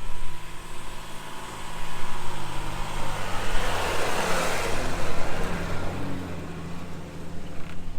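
Nissan Patrol Y62's petrol V8 running steadily as the four-wheel drive drives along a dune track. A broad rush of noise swells up about two seconds in and fades out again a few seconds later.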